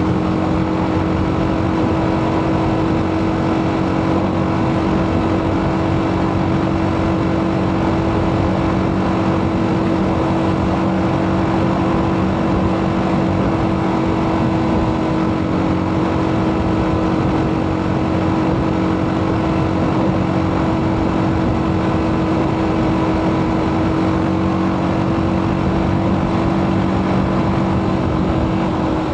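TVS Apache RTR 310's single-cylinder engine running through its stock exhaust at a steady engine speed, an unchanging drone.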